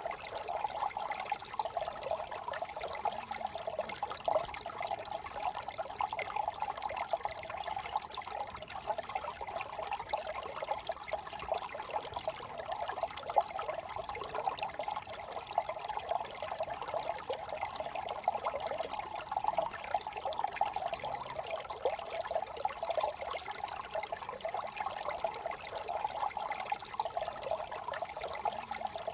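Small desert brook trickling steadily, a continuous burbling of running water.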